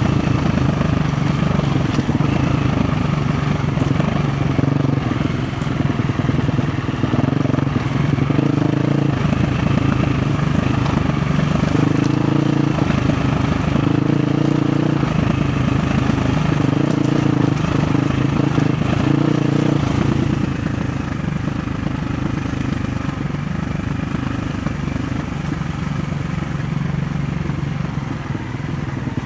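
KTM 350 XC-F dirt bike's single-cylinder four-stroke engine under way off-road, its note rising and falling with the throttle every second or two. From about twenty seconds in it runs steadier and a little quieter.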